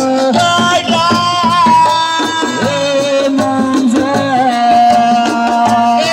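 Assiko band playing: a singer holding long, gently bending notes over fast, dense hand-drum percussion.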